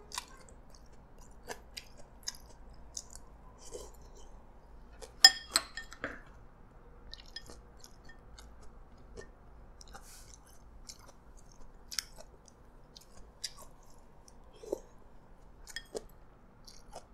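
A person chewing a mouthful of prawn noodles in broth, with scattered light clicks of chopsticks and a porcelain soup spoon against a ceramic bowl; the sharpest click comes about five seconds in.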